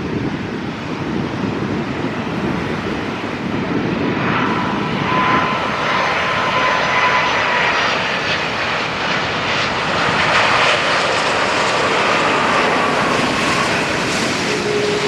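Airliner engines passing low on landing approach. The noise swells about four seconds in, with whining tones that slide slowly down in pitch as the aircraft goes by.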